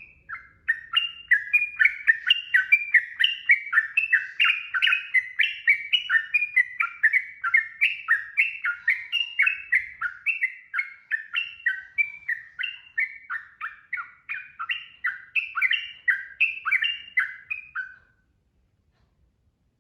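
Yellow-vented bulbul (trucukan) singing a long, unbroken run of quick bubbling notes, about three a second, stopping near the end.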